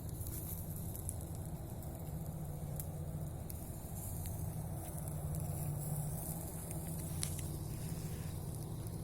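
Campfire crackling, with a few sharp pops, over a steady low hum.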